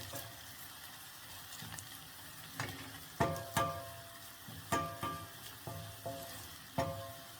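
Onions and ginger sizzling as they fry in oil in a pot, nearly golden brown. From about two and a half seconds in, the stirring spoon knocks against the pot about eight times, each knock ringing briefly.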